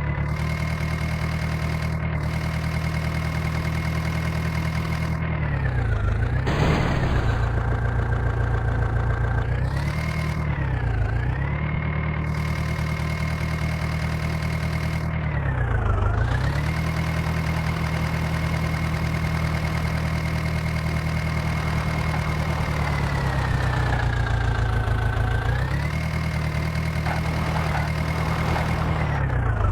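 Mahindra tractor's diesel engine running steadily, its speed sagging and picking back up about four times, as if briefly loaded or throttled back.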